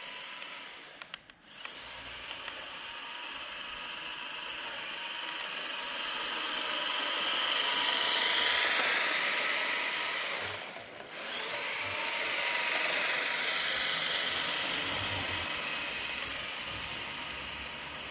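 Brushed 370 electric motor and drivetrain of a JJRC Q123 1/16 RC drift truck whining at speed on a speed run. The whine grows louder to a peak a little before halfway, drops out briefly, comes back, then fades away.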